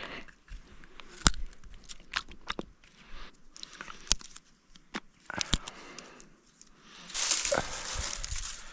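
Dry sticks and twigs being snapped and handled as kindling for a campfire: scattered sharp cracks and snaps, then a stretch of rustling near the end.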